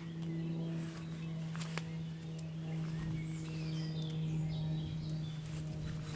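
Birds chirping over a steady low hum that holds one pitch.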